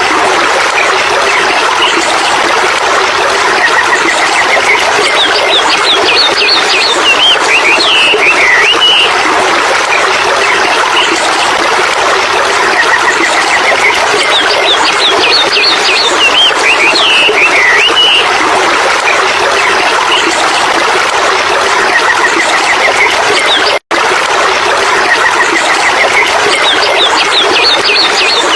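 Birds chirping and trilling over a loud, steady rushing noise, with similar phrases recurring about every ten seconds. The sound cuts out for an instant about three-quarters of the way through.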